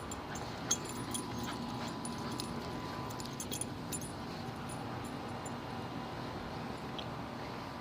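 Dog's collar tags jingling in light metallic clicks as the dog moves, most of it in the first four seconds, over a steady background hiss.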